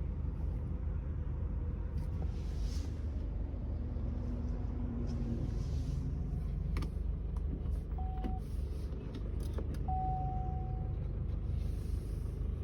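MG Gloster diesel SUV idling with a steady low rumble. There are a few scattered clicks, and short single-pitch beeps about eight and ten seconds in, the second lasting about a second.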